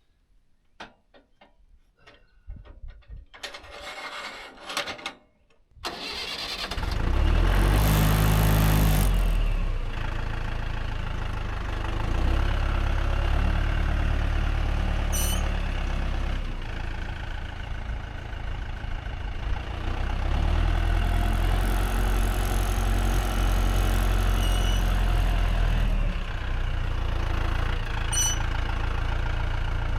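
A few light clicks and rattles, then a tractor engine starting about six seconds in. It is loudest for a few seconds just after it catches, then keeps running with its pitch and loudness shifting now and then.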